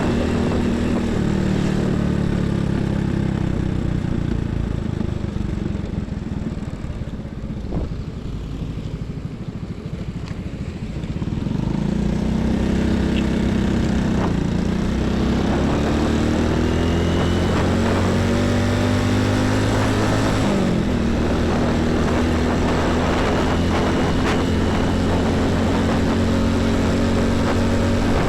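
Heavy highway traffic: diesel trucks and buses passing close by one after another, their engine notes rising and falling as they go past. The traffic eases for a few seconds about a third of the way in, then builds up again.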